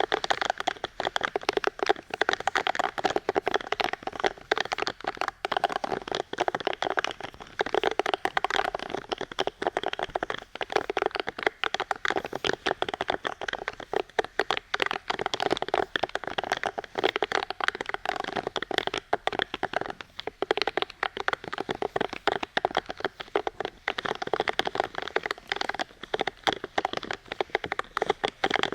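Fast, dense crackling and tapping close to the microphone, continuous and irregular.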